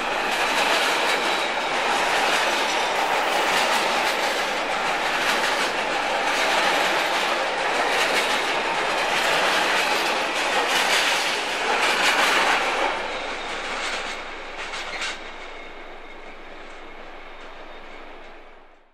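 Intermodal container freight train passing close alongside the platform: a steady rush of wagon wheels on the rails with repeated clacks. About thirteen seconds in, the sound drops off over a couple of seconds as the last wagons go by, leaving a quieter receding rumble.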